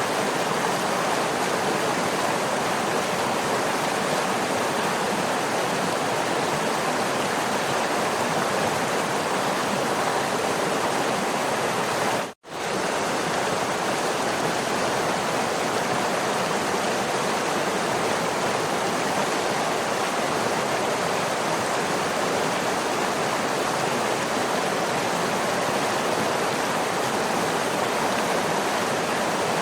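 Waterfall rushing in a steady, even roar of falling water. The sound drops out for a split second a little under halfway through, then carries on unchanged.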